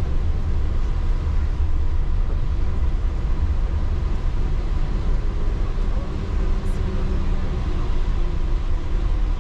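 Steady low rumble of a rubber-tyred automated guideway train (Yurikamome line) running along its elevated concrete track, heard from inside the car, with a faint whine for a couple of seconds past the middle.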